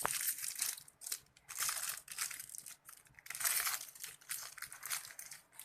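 Plastic toy packaging being crinkled and torn open by hand, in a string of irregular rustling bursts, with a sharp click at the start.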